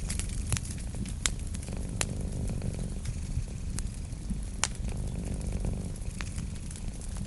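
Wood fire crackling, with scattered sharp pops, over a cat's steady purr that swells and fades with its breaths.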